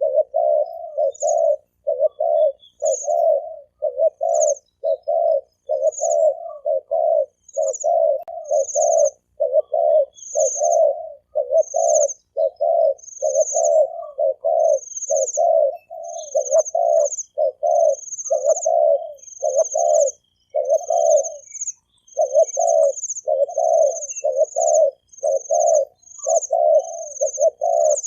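A male spotted dove gives a rapid, steady run of short bow-coos, roughly two a second, pausing briefly once past the middle. A small bird's thin, high chirps repeat above the coos about once a second.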